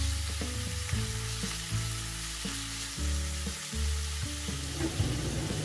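Thin slices of oil-marinated chicken breast sizzling in a hot wok, stirred and turned with a plastic spatula. Soft background music with held low notes sits underneath.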